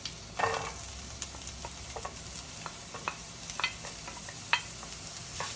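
Chopped onion scraped off a plate with a wooden spatula into a frying pan of hot oil and garlic, giving a light sizzle, with a brief louder rush of sizzling about half a second in as the pieces land. Scattered sharp clicks of the wooden spatula tapping against the plate and pan.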